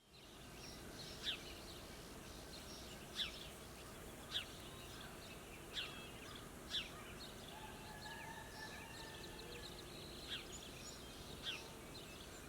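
Wild birds calling: one bird repeats a short, high note that slides downward, about every one to two seconds, over a faint steady background hiss, with a few softer chirps from other birds.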